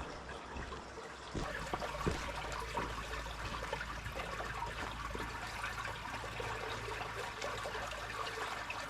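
Water trickling steadily, with many small splashing ticks and a low hum underneath.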